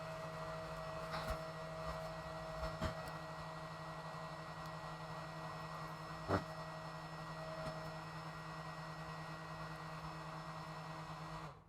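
Steady electrical hum with a few faint clicks and taps; the hum cuts off suddenly near the end.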